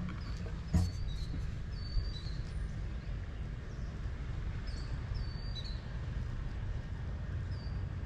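Small songbirds giving short, high chirps every second or so over a steady low rumble, with two sharp knocks in the first two seconds.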